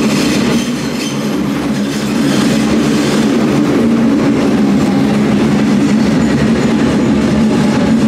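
Hamburg S-Bahn electric train running along an underground station platform: a loud, steady rumble of wheels on rail with a motor hum. A faint falling whine comes in near the end as the train slows.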